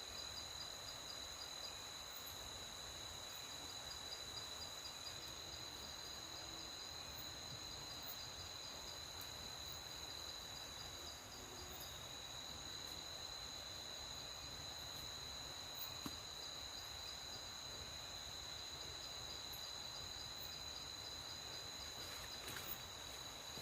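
Night insects, crickets among them, trilling steadily: a continuous high-pitched chorus with a fast pulsing chirp over it.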